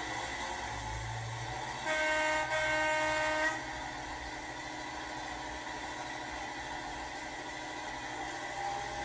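Sound-fitted OO gauge Accurascale Class 55 Deltic model sounding its horn through its small onboard speaker, in two blasts about two seconds in, a short one then a longer one. Underneath, the model's recorded engine sound runs steadily as it pulls away.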